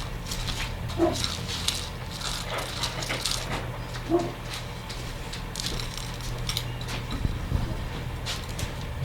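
Scratchy crackling and rustling of loose birdseed as a peanut-butter-coated cardboard roll is pressed and rolled in it, over a low steady hum. Two short high-pitched yips stand out, about one second and four seconds in.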